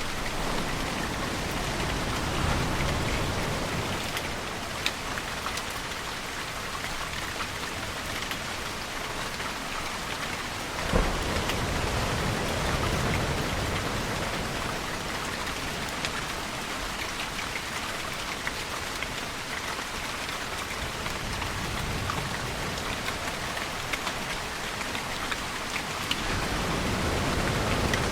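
Steady heavy rain falling, with low rumbles of distant thunder swelling and fading a few times. A single sharp crack near the middle is the loudest moment.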